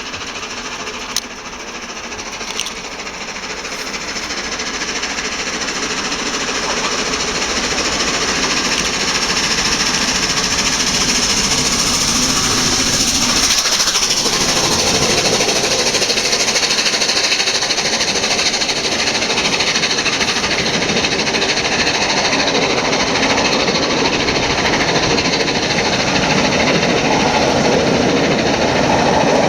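LNER Peppercorn A1 Pacific Tornado, a three-cylinder steam locomotive, working past with a rapid exhaust beat and the clatter of its train. The sound gets louder over the first several seconds and then holds. Two sharp clicks come in the first few seconds.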